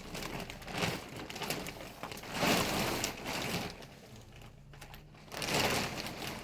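Plastic sheeting rustling and crinkling in a few irregular bursts.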